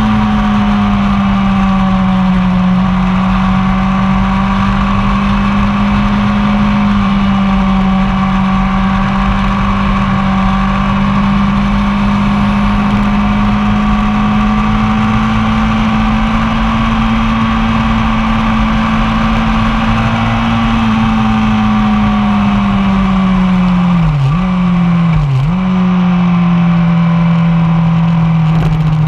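1999 Yamaha R1's inline-four engine running hard at fairly steady high revs on track, with the rush of wind over it. Revs dip sharply twice in quick succession a little past three-quarters through, then fall lower at the end.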